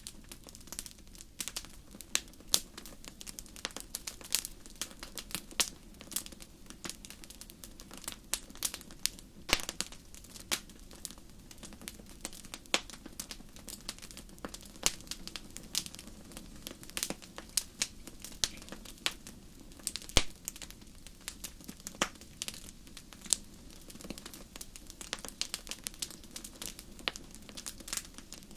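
Wood fire in a fireplace crackling: irregular sharp snaps and pops, several a second with an occasional louder one, over a steady low hiss of burning.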